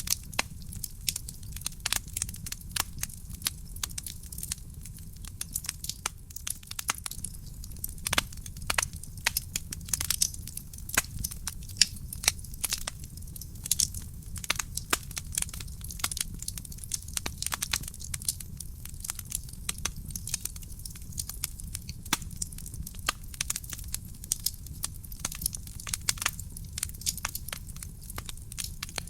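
Wood fire crackling in a fireplace: a dense, irregular run of sharp pops and snaps from the burning logs over a steady low rumble of the flames.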